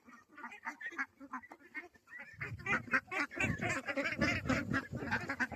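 A flock of domestic ducks calling while they feed, many short overlapping quacks, louder from about two seconds in.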